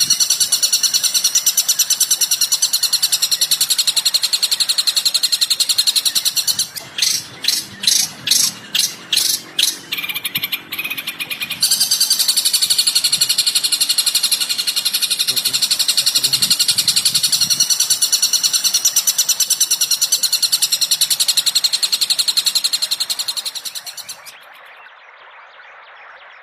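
Recorded songbird song: rapid, continuous high-pitched chattering and trilling. About a quarter of the way in it breaks into a run of about nine separate sharp calls at roughly three a second, then the dense chatter resumes and fades out near the end.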